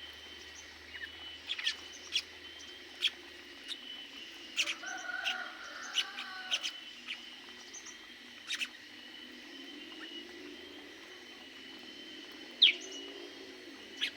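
Small aviary birds chirping: short, sharp calls at irregular intervals, with a brief warbling phrase about five seconds in and one loud chirp near the end.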